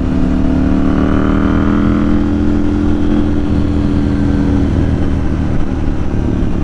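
KTM 790 Duke's 799 cc parallel-twin engine pulling on the move through its aftermarket Remus exhaust, its note rising gently, holding, then easing off about five seconds in.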